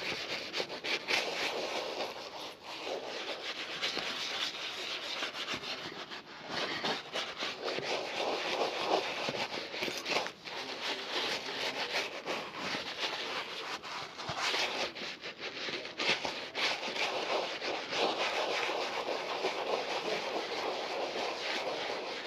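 A leather shoe being rubbed during a shoe polish, with continuous scratchy rubbing strokes.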